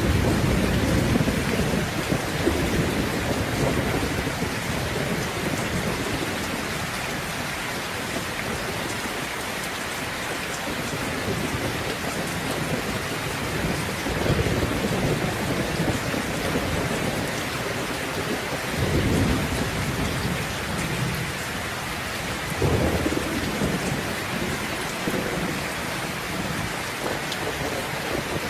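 Steady heavy rain hissing, with low rolls of thunder rumbling in at the start and again several times, strongest about two-thirds of the way through.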